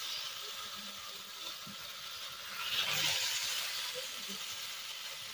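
Raw chicken pieces sizzling in hot oil and spice paste in a large kadai, a steady frying hiss that swells about three seconds in.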